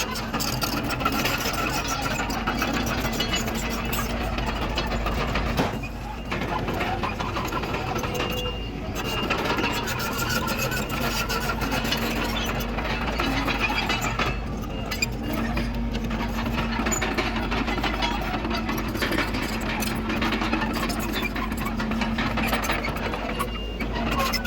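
Komatsu D31PX bulldozer working: its diesel engine running steadily under load with a constant rattle of clicks and knocks from the machine, dipping briefly a few times.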